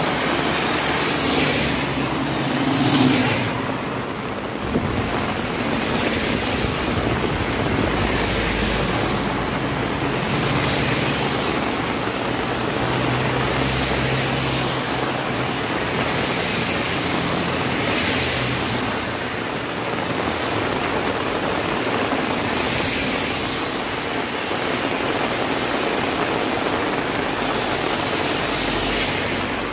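Heavy rain falling steadily, with several vehicles passing on a wet road: tyre hiss swells up and fades away again and again, with engine hum at times.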